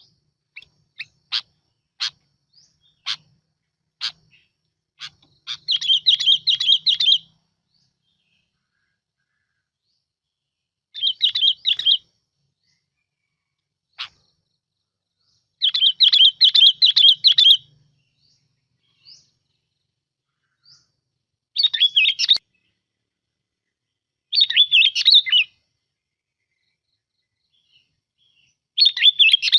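Bulbul (bông lau) lure song: single sharp chip notes about once a second for the first five seconds, then short bursts of rapid, bubbling song repeated six times at irregular gaps of several seconds.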